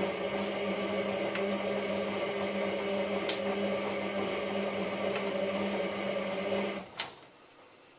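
Hotpoint 9534A washing machine's motor turning the drum on the main wash, a steady hum that stops near the end with a sharp click, the pause between tumbles.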